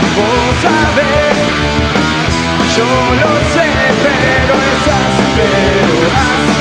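Punk rock band playing live: a loud, steady instrumental passage of a song, with electric guitars and drums and a lead melody over them, between sung verses.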